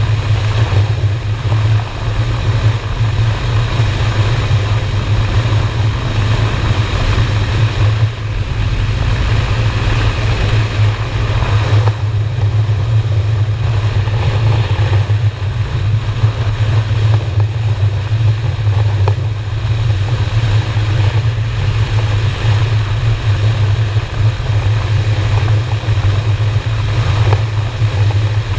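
Motorcycle V-twin engine running steadily at cruising speed, with a low, even drone and wind rushing over the microphone.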